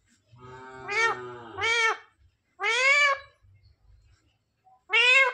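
Parrot making four drawn-out, meow-like calls, each rising and then falling in pitch; the first two come close together and the last is cut short near the end.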